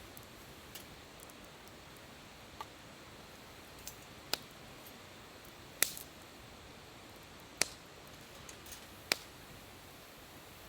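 A few isolated sharp, light clicks or taps, about five, spaced a second or more apart, over a faint steady background.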